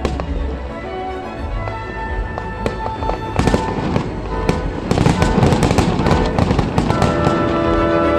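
Fireworks going off over steady music, with single bangs at first and then a dense, crackling barrage of bursts from about five to seven seconds in.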